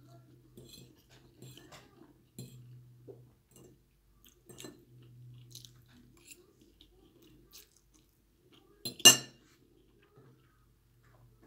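Eating sounds from a mukbang meal of noodles and egg: chewing and small clicks of cutlery against a plate or bowl. One loud sharp clink comes about nine seconds in.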